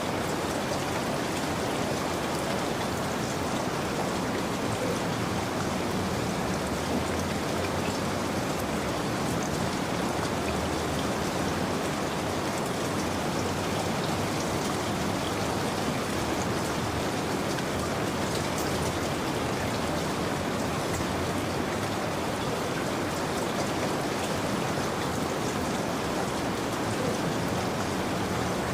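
Steady rain falling, an even hiss with fine pattering drops.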